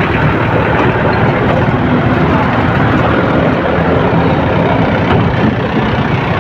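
Engines of buses and trucks running in slow, jammed traffic, a steady dense noise with no single event standing out.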